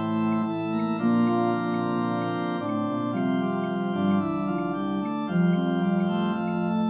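Organ playing a hymn in slow, held chords that change about every second or so, with a low bass note coming in near the middle.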